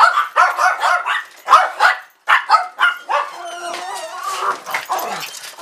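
Dogs barking, yipping and whining in quick, overlapping calls, excited at being asked to go outside.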